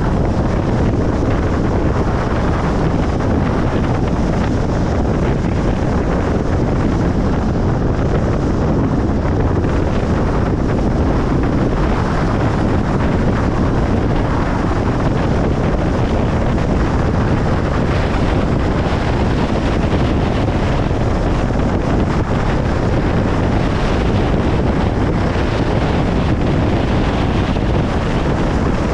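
Steady road noise of a car driving on a highway: an even rush of tyre and wind noise with no breaks or changes.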